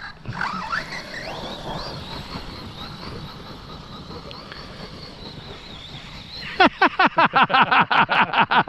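Electric motor of a radio-controlled monster truck whining as it is driven, rising and falling in pitch with the throttle. Near the end comes a much louder rapid run of short pitched pulses, about ten a second.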